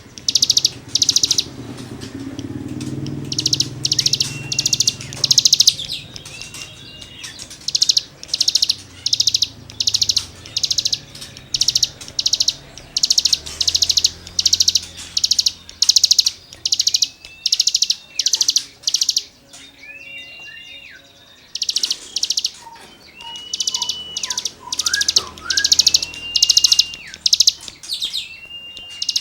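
Cigun (ciblek gunung) songbird singing its scratchy 'gesekan' song: a fast series of harsh, buzzy notes, about two a second, broken by short thin whistles. There is a brief pause about two-thirds of the way through.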